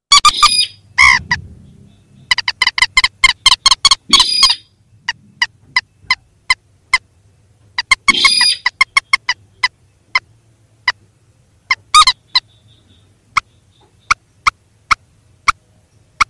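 Recorded calls of rails (mandar and sintar), played as a bird-lure track: trains of short, clipped, pitched notes, fast runs in the first half and then spaced out at about two a second, broken by a few longer calls near one, four, eight and twelve seconds in.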